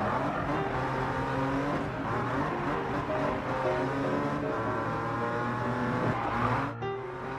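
Cartoon car-engine sound effects running and revving, the pitch gliding up and down, with a brief gap just before the end.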